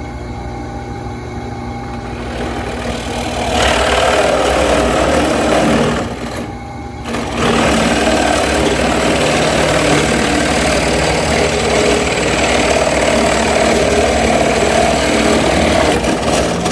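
Drill press motor running, then the bit boring a hole through a cedar board, with a short letup about six seconds in before cutting resumes and stops at the end.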